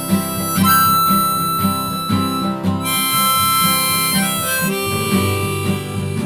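Instrumental song intro: a harmonica plays long held notes, changing pitch a few times, over a steadily strummed acoustic guitar.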